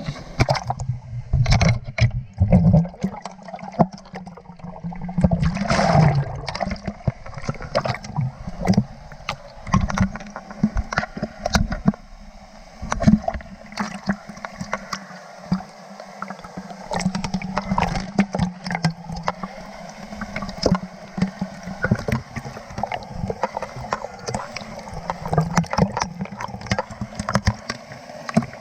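Water splashing and gurgling close to the microphone, with many irregular sharp splashes and knocks over a continuous rushing-water noise.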